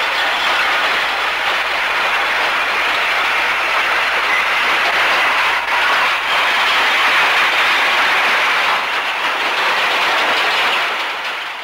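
Freight wagons of a steam-hauled train rolling past close by: a steady, loud rumble and clatter of wheels on the rails, with a couple of faint knocks about halfway, easing off near the end.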